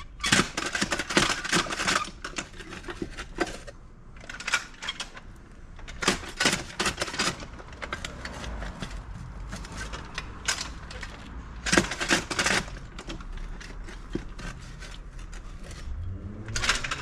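Hand digging in stony ground: a metal tool scraping and clinking into gravelly soil in short bursts every few seconds.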